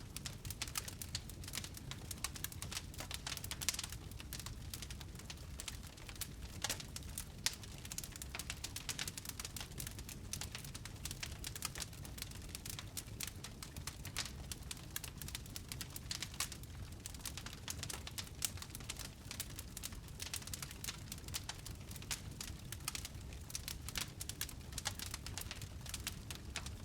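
Wood fire in a fireplace crackling, with irregular snaps and pops over a steady low rush of burning.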